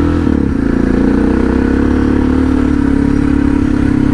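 Suzuki DR650's single-cylinder four-stroke engine running as the motorcycle rides off. The pitch dips briefly about half a second in, then holds steady.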